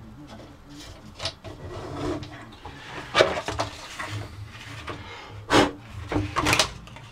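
Metal parts being handled while a contact wheel is fitted to a belt grinder: irregular knocks and scrapes with a few sharp clanks, the grinder's motor not running.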